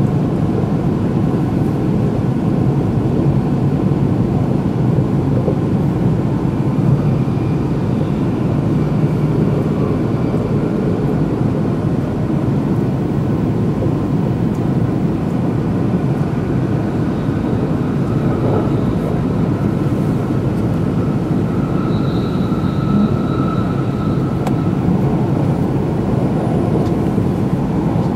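Steady running noise of an E2-series Shinkansen heard from inside the passenger cabin: a constant rumble of wheels on rail at speed. A faint high whine joins it for a couple of seconds about three-quarters of the way through.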